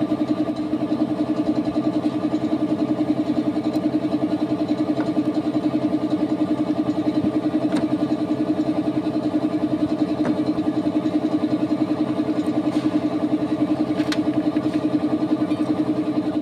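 Honda TMX 155's single-cylinder four-stroke engine idling steadily with an even, rapid pulse.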